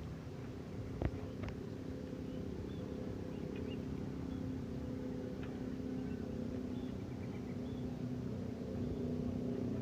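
CC206 diesel-electric locomotive engine running with a steady hum over a low rumble. It grows gradually louder toward the end, and there is one sharp knock about a second in.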